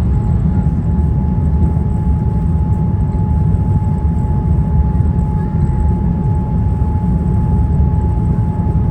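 Cabin noise of a Boeing 787-9 airliner in flight: a steady low rumble of engines and airflow with a thin steady whine above it.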